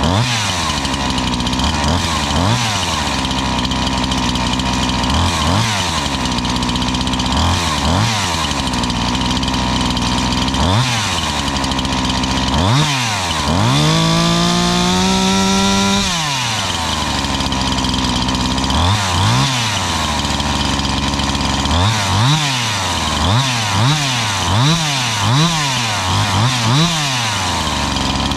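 Husqvarna 345 two-stroke chainsaw idling and being revved in short blips of the throttle, held at high revs for about two seconds midway and blipped rapidly several times near the end. It is the freshly rebuilt saw's test run before carburettor tuning, running decent.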